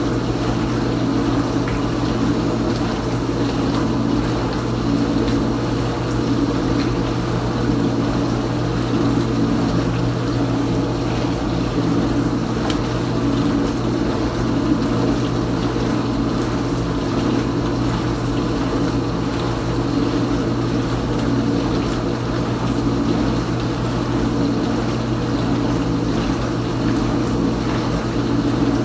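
Kenmore Ultra Wash 3 dishwasher mid-cycle, its pump motor humming steadily while it circulates and sprays water inside the tub.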